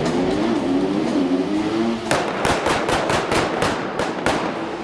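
A stunt car's engine revving, rising in pitch, then about two seconds in a rapid run of sharp bangs, roughly five a second.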